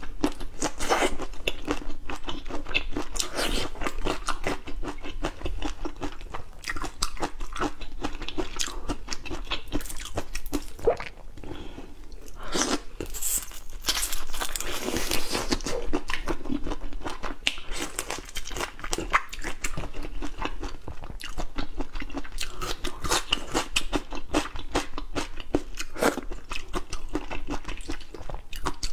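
Close-miked crunching and chewing of seafood: a dense run of rapid crackling bites, with a short lull about eleven seconds in.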